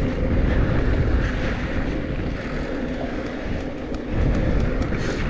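Mountain bike rolling fast down a dirt and rock trail: steady tyre and trail noise with a heavy wind rumble on the microphone and a few faint ticks and rattles.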